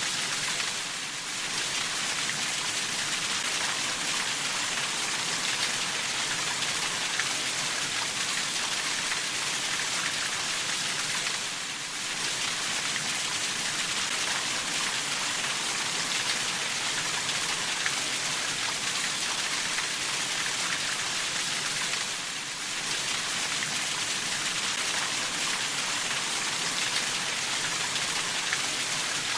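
Steady, dense rainfall pattering on a surface, an even hiss of many drops, dipping briefly in level about every ten seconds.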